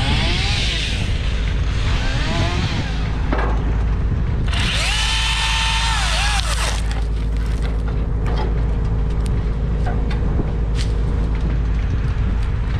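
A power tool motor whining under load: it rises in pitch about four and a half seconds in, holds, then drops away near seven seconds. A steady low rumble runs underneath, and scattered sharp ticks follow.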